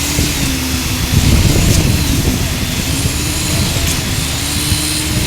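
Heavy truck's diesel engine running steadily under load, with a louder rough surge about a second in.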